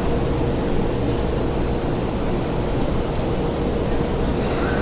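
Odakyu 60000 series MSE Romancecar moving past along the platform: a steady low rumble of wheels and running gear with a faint hum, and a brief hiss near the end.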